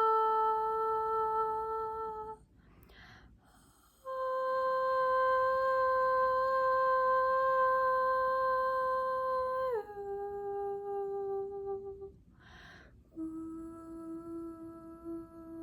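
A woman's voice toning: long held wordless notes, with short breaths between them. The second note slides down in pitch near its end, and the last note is lower still.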